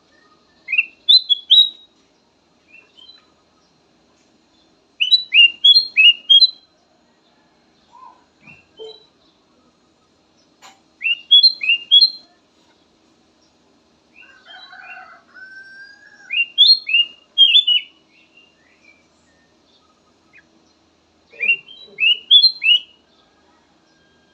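Kutilang emas bulbul singing: short bright phrases of three to five quick whistled notes, repeated about every five seconds, with a softer, lower call between two of them.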